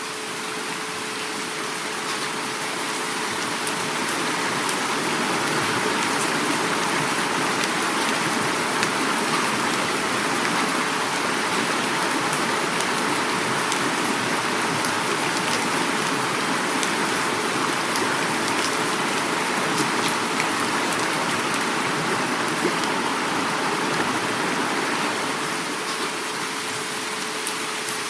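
Heavy rain falling together with a flowing river: a steady, dense rushing hiss with scattered sharp drop ticks, and a faint steady hum underneath.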